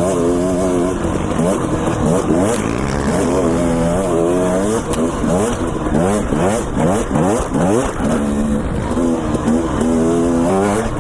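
Dirt bike engine under riding load, revving up and falling back again and again as the throttle is worked, holding a steady note at the start and again near the end.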